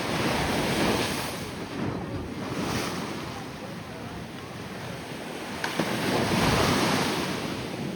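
Ocean surf breaking and washing up the beach, swelling to a peak about a second in and again about six seconds in.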